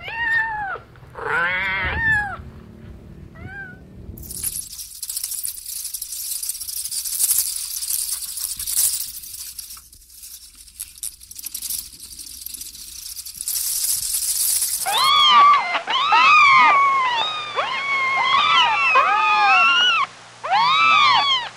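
Kittens mewing: a few short high-pitched mews at the start, then after a long stretch of steady high hiss, several kittens meowing over one another without pause.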